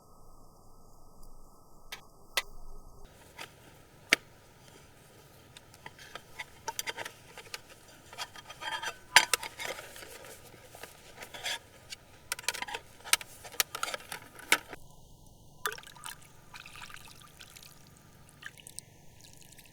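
Liquid splashing and trickling with many small irregular clicks and knocks, busiest in the middle stretch.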